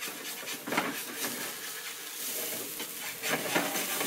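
Shredded-potato pancake sizzling as it fries on high heat, with a spatula scraping and pressing at the pan a few times.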